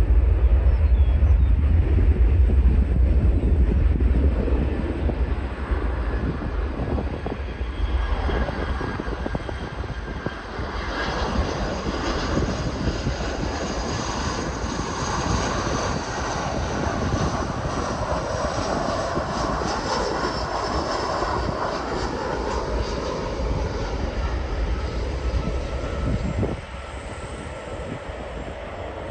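Jet airliner engines passing close by on landing approach. A heavy low rumble at first gives way, about ten seconds in, to a loud rushing roar with a high whine, which cuts off abruptly near the end.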